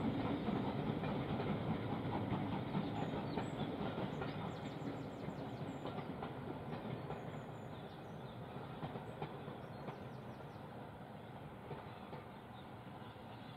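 Passing steam-hauled passenger train's carriages rumbling and clicking over the rail joints, fading steadily as the train draws away.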